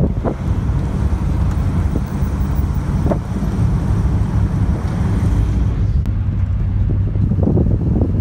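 Classic car's engine running steadily while cruising at speed, a constant low rumble from inside the car, with wind rushing over the microphone.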